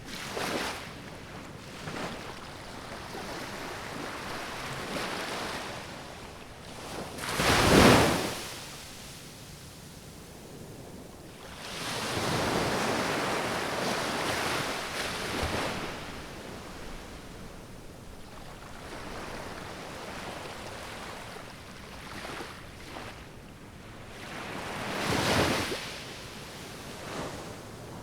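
Sea waves washing in, a rushing sound that swells and fades several times, the loudest surges coming about eight seconds in and again near the end.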